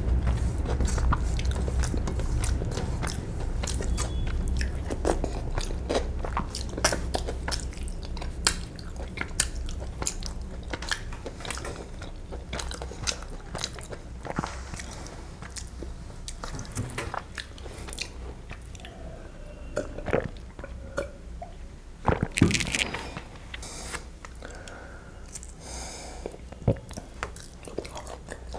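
Close-miked chewing of biryani rice and chicken curry, with wet lip smacks and mouth clicks, and fingers working food off a steel plate. A louder knock comes about three-quarters of the way through.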